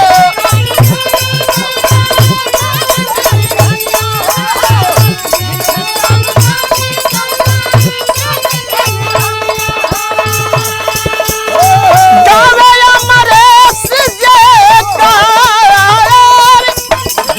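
Bhojpuri birha folk music with a steady low drum beat, rattling metal percussion and a held-note melody that wavers and grows louder in the last few seconds.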